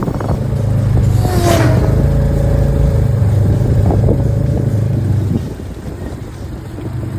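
Off-road vehicle engine running steadily under way on a trail, easing off about five seconds in.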